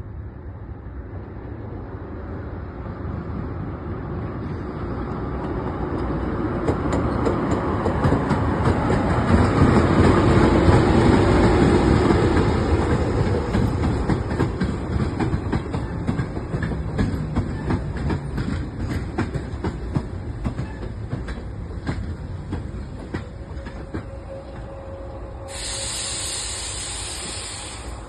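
A train passing along the track, growing louder to its peak about ten seconds in and then fading away, with quick wheel clicks over the rail joints as it goes by. Near the end comes a short spell of steady hiss.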